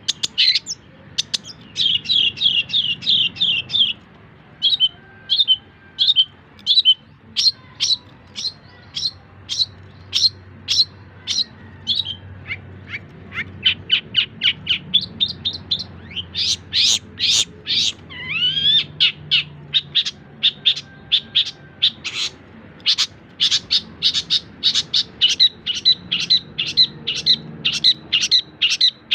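Long-tailed shrike (cendet) singing: runs of sharp, quickly repeated chirps, with a fast trill near the start and a rising whistle a little past the middle.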